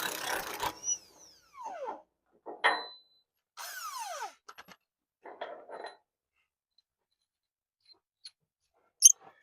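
A loud burst of tool noise dies away in the first second as the last bolt on this side of the truck frame comes loose. Several short squeals that fall in pitch and a few light clinks follow, with a sharp click near the end.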